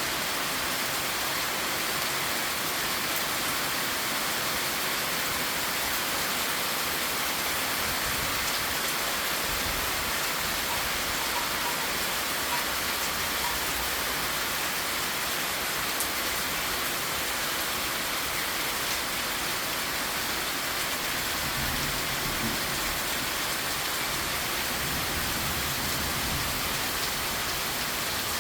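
Steady rain falling, an even hiss of drops with no letup, and a low rumble now and then underneath.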